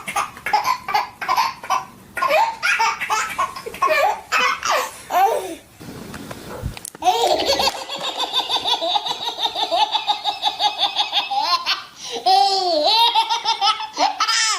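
A young child laughing hard in repeated fits. In the middle comes a long run of quick, even laughs lasting about four seconds, then squealing laughs near the end.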